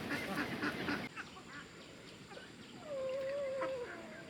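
Domestic ducks quacking rapidly, then after a short lull a single drawn-out, wavering call about three seconds in.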